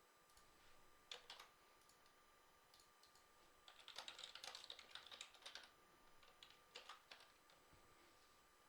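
Faint typing on a computer keyboard: a few key clicks about a second in, a quick run of keystrokes in the middle, and a few more toward the end.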